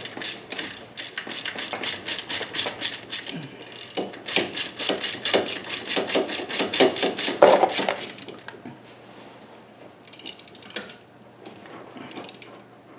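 Hand ratchet wrench clicking in a fast, even run as a bolt is backed out, stopping about eight seconds in; faint scattered taps and clinks follow.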